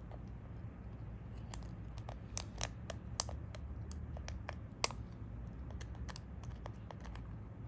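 Small repair tools clicking and tapping against the parts of an Xperia 5 II smartphone opened for a power-button repair: scattered sharp light ticks, the loudest about five seconds in, over a steady low hum.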